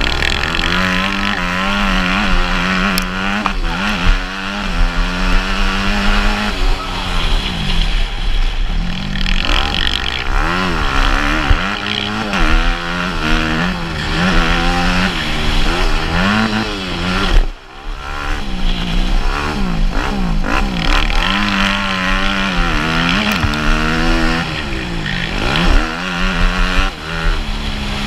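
Motocross dirt bike engine revving hard, its pitch climbing and falling again and again as the throttle is opened and closed through the gears, with a short dip about two-thirds of the way through.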